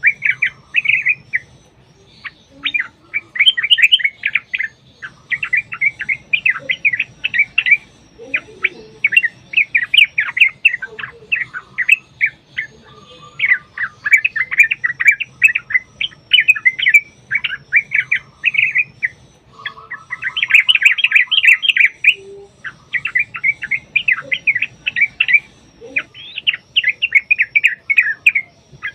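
Yellow-vented bulbuls (trucuk) singing in rapid, chattering runs of bubbly notes, one phrase after another with short pauses.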